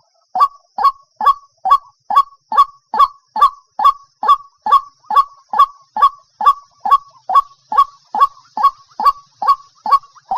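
White-breasted waterhen giving its monotonous repeated call as a lure call: short notes about two and a half a second, each dropping in pitch, over a faint steady high hiss.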